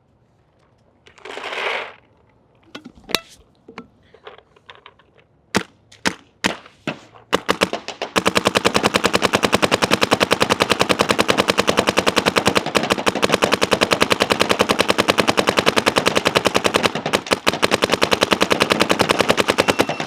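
Shocker ERA paintball marker firing: a few scattered single shots, then from about eight seconds in a continuous rapid stream of shots. A short rustle comes about a second and a half in.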